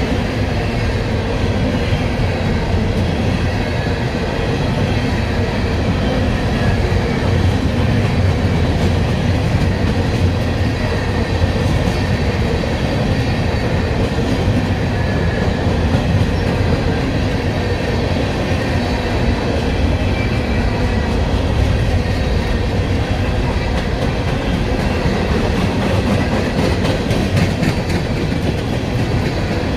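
CSX freight train cars rolling past on the rails: a steady low rumble with the clatter of wheels over rail joints.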